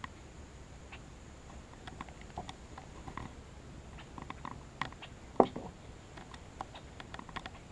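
Scattered light clicks and taps from fishing gear against a kayak, with one sharper knock about five and a half seconds in.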